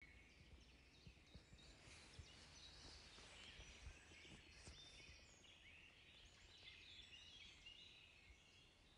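Faint birdsong: several small birds chirping and whistling in short phrases over a faint background hush.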